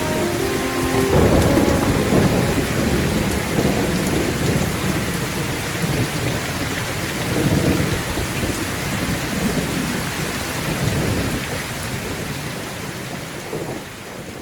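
Heavy rain with thunder rumbling in several rolling swells, fading out near the end.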